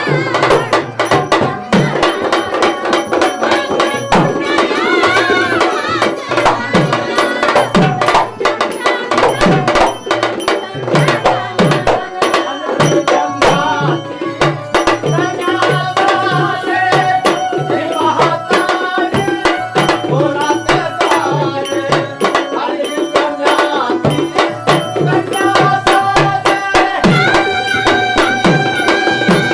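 Traditional Marathi tamasha music for a gan: a hand drum keeps a steady repeating beat under dense metallic jingling percussion, with held melodic tones over it.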